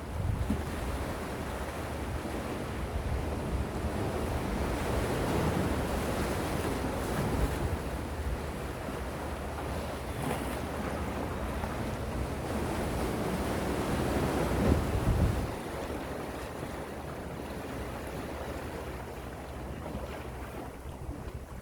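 Gentle sea waves washing in and drawing back, the surf swelling and easing, with the loudest surge about fifteen seconds in before it falls away.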